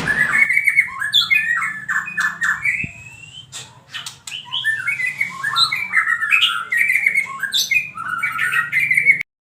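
White-rumped shama (murai) singing a fast, varied song of whistled phrases mixed with harsh chattering notes. It eases off briefly partway through, then picks up again before cutting off suddenly near the end.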